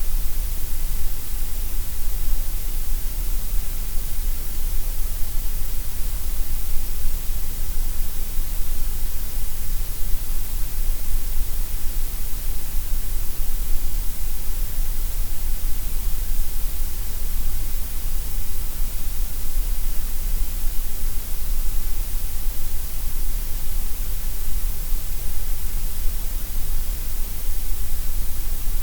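Gray noise: a steady, unchanging synthetic hiss, heavy in the deep bass and the high treble and thinner in the middle.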